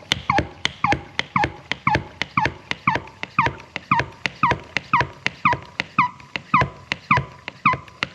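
Small hand-pumped water spray bottle being worked over and over, each stroke a click with a short squeak, about two a second.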